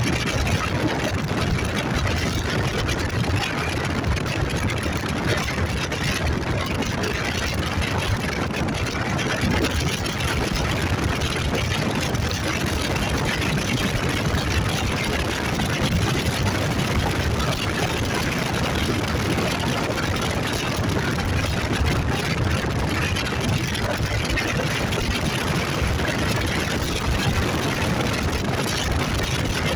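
Motorcycle running at a steady pace, its engine blended with a constant rushing noise, with no change in speed or pitch.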